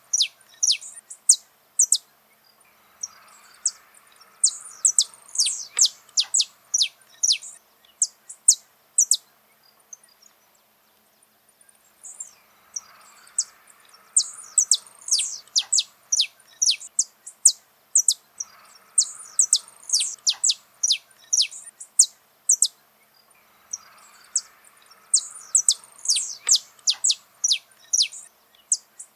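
Saffron finch (canário-da-terra) singing: long runs of rapid, high chirps, each a quick downward sweep, broken by short pauses, the longest about ten seconds in.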